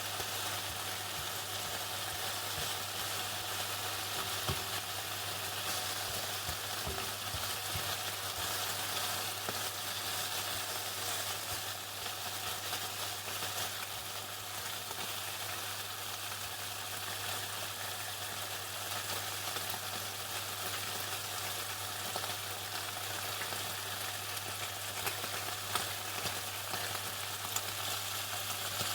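Chicken frying in hot oil: a steady crackling sizzle with scattered sharper pops, more of them near the end, over a low steady hum.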